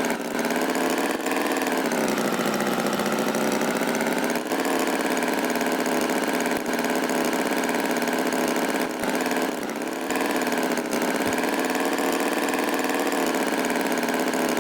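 Tractor engine running steadily, its pitch wavering slightly, with a few brief dips in level.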